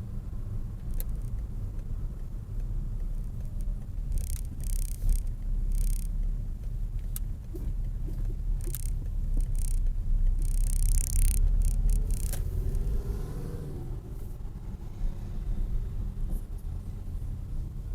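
Steady low rumble of car engine and road noise, with a few brief hissing patches. About thirteen seconds in, another car's engine rises and falls in pitch as it revs or passes.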